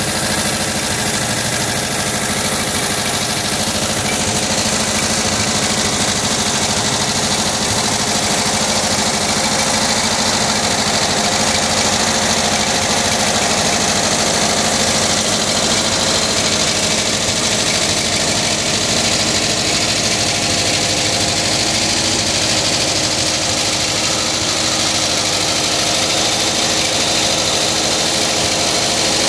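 1979 Volkswagen Type 2's 2-litre fuel-injected flat-four engine idling steadily with a clanking, like two glass bottles banged together. The owner suspects the cooling fan, refitted without its original alignment, is tapping against the magnesium fan housing.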